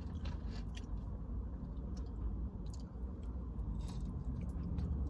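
Close-up chewing of a mouthful of Raising Cane's food, with scattered wet mouth clicks and smacks over a steady low hum.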